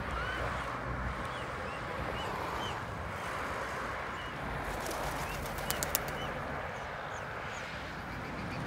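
Birds chirping: short, high chirps scattered every second or so over a steady background hiss, with a few sharp clicks a little past the middle.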